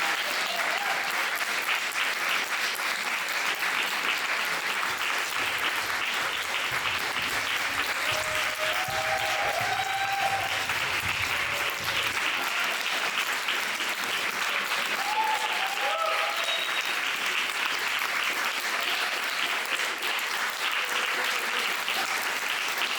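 Theatre audience applauding steadily, with a few short calls from the crowd rising above the clapping.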